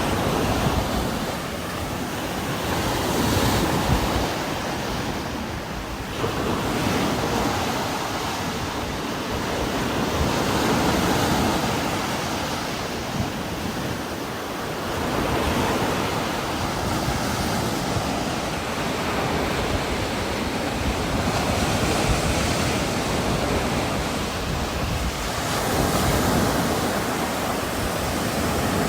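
Heavy rain falling with strong wind blowing through trees, a steady rush that swells and eases in gusts every few seconds.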